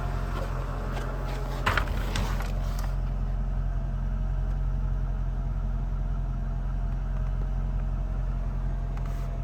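2003 Mercedes-Benz E55 AMG's supercharged 5.4-litre V8 idling steadily as it warms up after a cold start, with a brief clatter a little under two seconds in.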